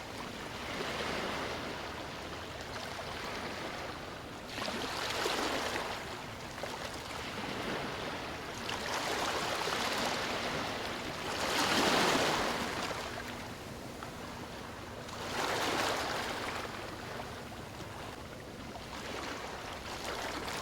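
Sea waves breaking and washing up on a beach, in a steady hiss that swells with each wave, about every three to four seconds, loudest about twelve seconds in.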